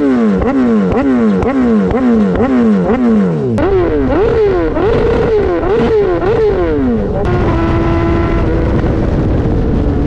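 BMW S1000RR inline-four sport bike engine through an Austin Racing GP1R full Inconel exhaust, revved in quick repeated blips, each a sharp rise and fall in pitch, about two a second and then a little slower. About seven seconds in, the revving gives way to a steady sustained tone.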